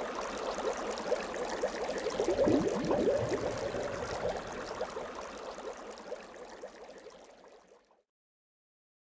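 Water dripping and trickling into water: a dense run of small plinking drops over a soft watery hiss. It fades away and stops about eight seconds in.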